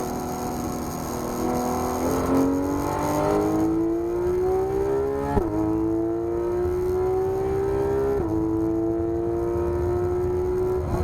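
Porsche 991 GT3 RS flat-six engine pulling hard under acceleration, its pitch climbing steadily. Two upshifts on the paddles drop the pitch sharply, about five seconds in and again about eight seconds in, the first with a short click.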